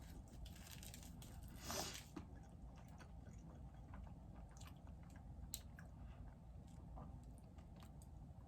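Faint chewing and mouth sounds of a person eating bread and soup, with scattered small clicks and a slightly louder burst about two seconds in.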